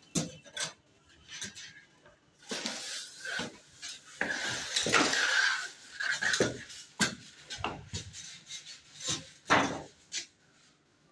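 A string of irregular knocks and clatters of hard objects being handled, with rubbing and rustling in the middle.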